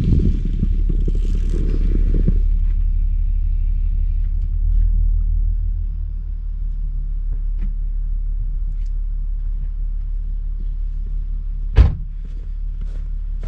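Honda Pilot SUV driving on a snowy road, heard as a steady low engine and tyre rumble, with a rougher, noisier layer for the first couple of seconds. A single sharp thump comes about twelve seconds in.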